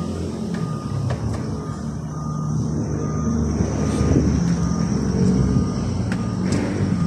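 A vehicle's reversing alarm beeps at a steady pace, a little more than once a second, over the running engine of the vehicle backing up. The engine swells about halfway through, and a couple of short sharp hisses come near the end.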